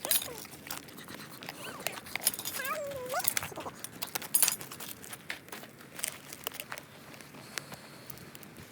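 Campfire crackling with scattered sharp pops at an irregular pace, and a short high whining call that bends up and down about three seconds in.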